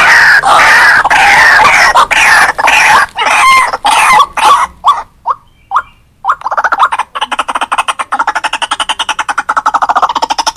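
White-breasted waterhen calls: a loud run of harsh repeated notes that slows, breaks up and stops about halfway, then a fast, even series of short notes, about nine a second, starts up and carries on.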